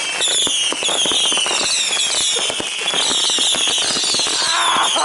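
Fireworks going off at close range: many overlapping whistles, each falling in pitch, over a dense crackle of sharp pops.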